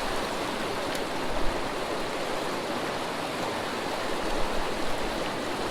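Small creek flowing, a steady rush of running water.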